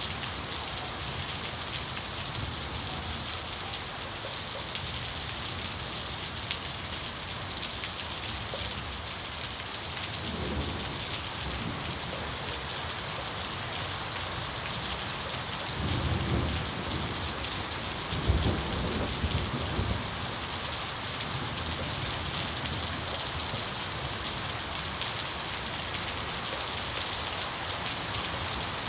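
Steady heavy rain falling, with a few low rolls of thunder rumbling through the middle, the strongest about two-thirds of the way in.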